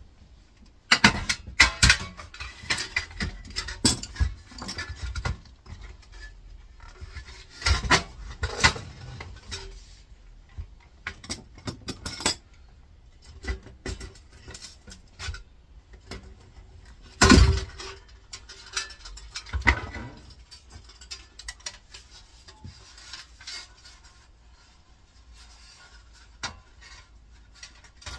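Irregular metallic clinks, clatters and knocks of air fryer parts being prised apart and small metal pieces handled, with the loudest knock about 17 seconds in.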